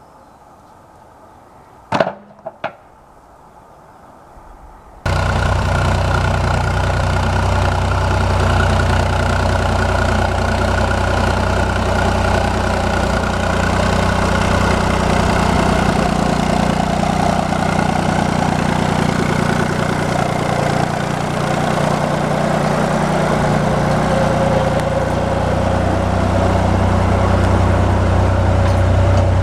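Two sharp knocks about two seconds in, then, from about five seconds in, a tractor engine running steadily and loudly, cutting in abruptly at full level.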